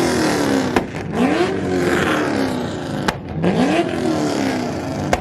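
A car engine revved hard again and again, its pitch climbing fast and then sinking back, three times about two and a half seconds apart. A sharp bang cracks out just before the second and third revs and again near the end.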